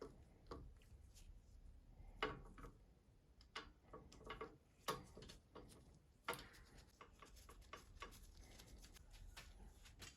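Faint, irregular clicks and light taps of small parts and hand tools being handled while a bicycle's brakes and cables are fitted.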